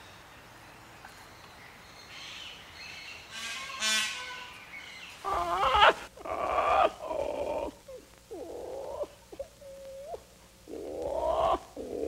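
Green-winged macaw calling: from about five seconds in, a run of loud squawks and rising, wavering calls with short gaps between them. A shorter single call comes just before, near four seconds.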